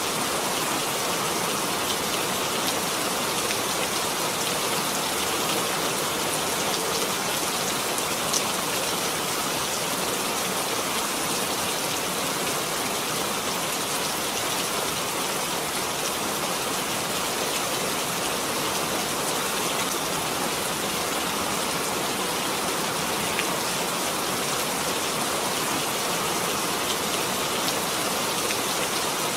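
Steady rain falling, a dense even hiss of drops with faint individual drop ticks.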